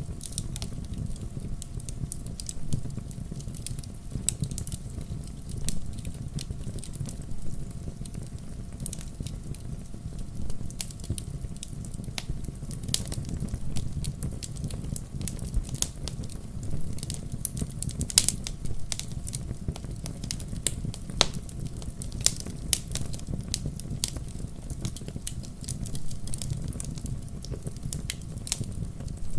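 Wood fire burning in a fireplace: a steady low rumble of flames with frequent irregular crackles and sharp pops, the loudest pop about eighteen seconds in.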